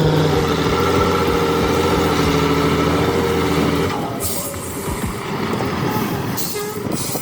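Heavy truck's diesel engine running under load at a steady pitch, easing off about four seconds in, followed by two short bursts of air hiss.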